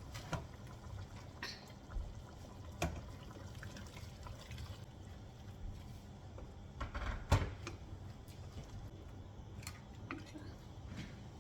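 Water being poured into a pot of cooking chicken, with scattered light clicks and one sharp knock, the loudest sound, about seven seconds in.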